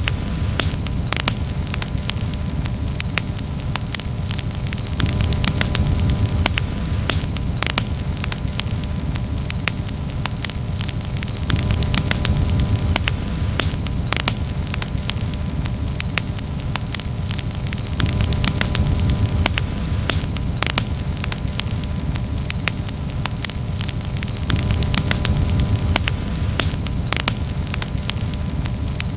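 Campfire crackling: frequent sharp pops and snaps at uneven intervals over a steady low rushing sound that swells and eases every few seconds.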